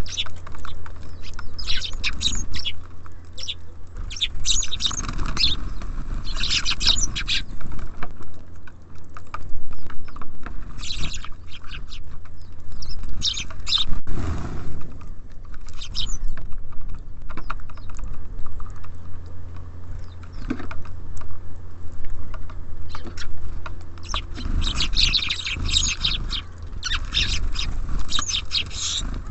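Small songbirds at a feeder chirping and twittering in quick clusters that come and go, busiest at the start and again near the end, over a steady low rumble.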